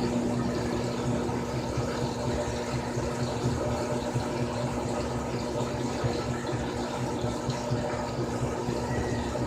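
Frigidaire Gallery Series top-loading washing machine running through a cycle: a steady motor or pump hum with water sounds, unchanging throughout.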